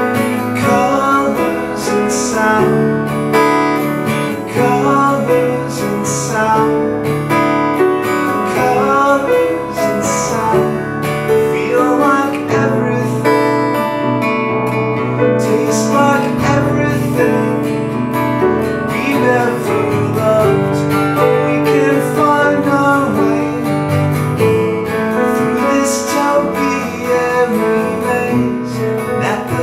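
Instrumental passage of a song: acoustic guitar strumming chords, with piano, and no lead vocal.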